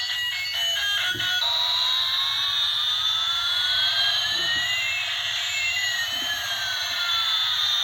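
Electronic beeping tune for about a second and a half, then two electronic tones sweeping slowly in opposite directions, one rising and one falling, crossing about halfway through.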